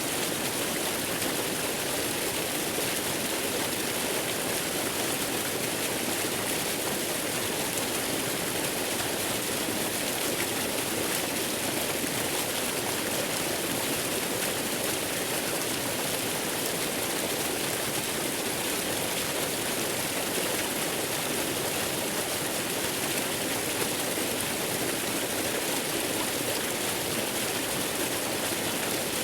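Waterfall rushing steadily, an even hiss of falling water like white noise that never changes.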